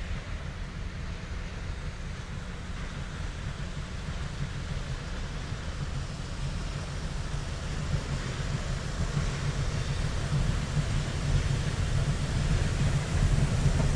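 Southern Railway No. 4501's steam locomotive approaching with its train, a low rumble growing steadily louder.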